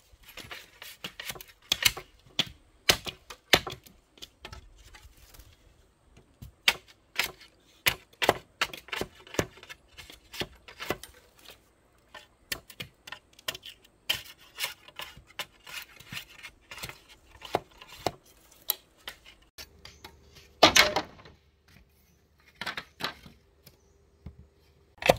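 Runs of quick, irregular sharp taps and knocks, several a second, with short pauses between runs and a louder scraping burst near the end.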